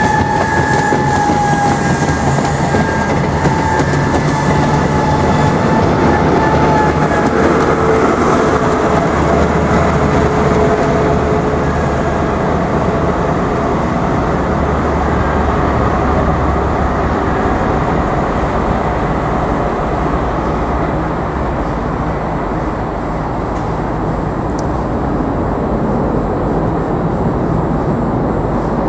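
First Great Western High Speed Train running through at speed: a loud, steady rush of wheel and rail noise, with high whining tones that slide slowly down in pitch over the first ten seconds or so as the train passes and draws away.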